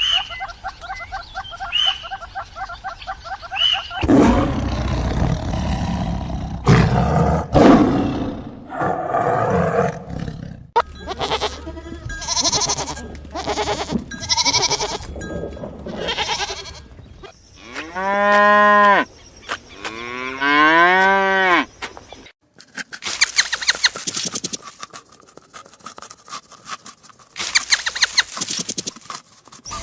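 A string of different farm animal calls, one after another, with cattle mooing among them. It opens with short, high, chirpy calls, and near the end there are rapid, rattling trains of clicks.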